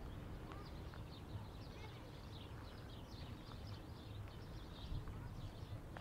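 Small birds chirping and twittering, many short high chirps overlapping, over a low rumble of wind and footsteps on a dusty path.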